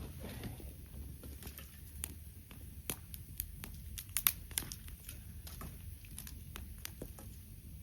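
Campfire crackling, with irregular sharp pops over a low steady rumble.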